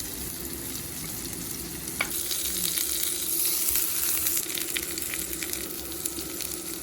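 Whole king oyster mushrooms sizzling as they grill in a hot pan: a steady crackling hiss that swells a little about halfway through, with a single click about two seconds in.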